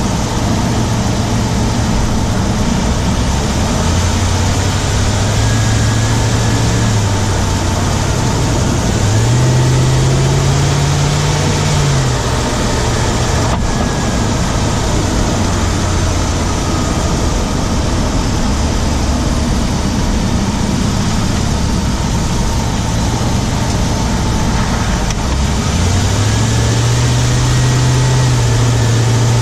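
Ram 1500's Hemi V8 running while the truck is driven, heard from inside the engine compartment on the driver's side, its pitch rising twice as the truck accelerates. A ticking runs through it, which the owner suspects may be the Hemi tick or something else.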